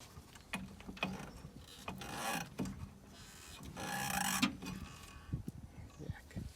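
Metal parts and hand tools being handled: scattered clicks and knocks, with two longer rasping, ratchet-like bursts about two and four seconds in.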